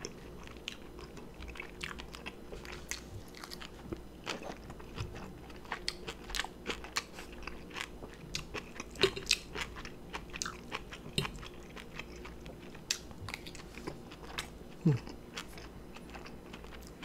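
Close-miked eating sounds: crunchy bites and wet chewing of kimchi with mashed potato, as a run of small crunches with a couple of louder ones about nine seconds in and near the end.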